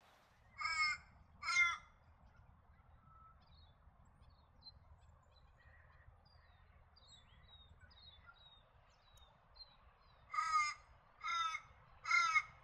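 A large bird's harsh, rasping calls: two near the start and three more near the end, each short. Faint high chirps and twitters from small birds come in between.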